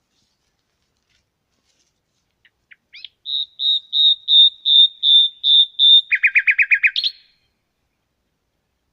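A songbird singing one phrase: a few soft lead-in notes, then about eight clear, evenly repeated high whistled notes on one pitch, switching to a quick lower trill of about eight notes and ending on a short rising note.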